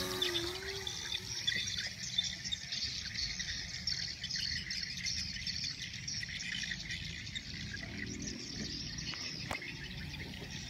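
A steady outdoor chorus of insects chirring and birds chirping, over a low rumble. A faint engine drone that shifts in pitch fades away in the first second.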